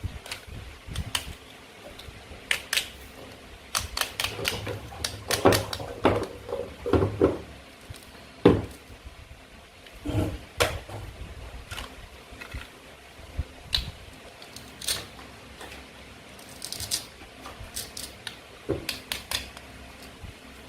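Irregular clicks, taps and short scrapes of toy play food being cut and handled: a toy knife knocking and sliding against plastic and wooden fruit and vegetable pieces. The taps come thickest in the first half, with a few sharp knocks standing out.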